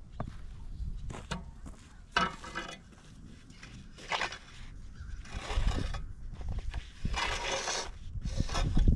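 Snow shovel scraping snow off a driveway in several separate strokes.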